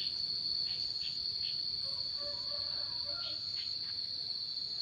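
Cricket chirping in one continuous, steady high-pitched trill, with a few faint short calls in the background.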